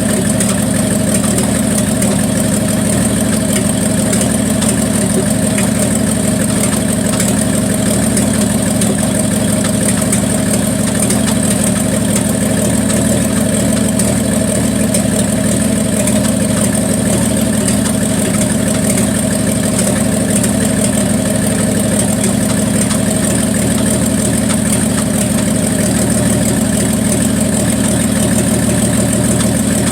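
1974 Plymouth Duster's slant-six engine idling warm and steady, with a miss in it that the owner puts down to valve lash set too tight.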